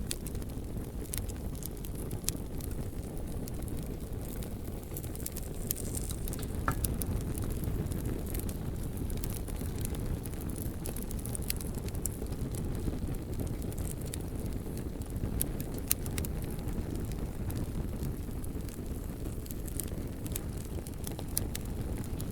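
Bonfire burning: a steady low rumble with scattered sharp crackles and pops from the burning logs.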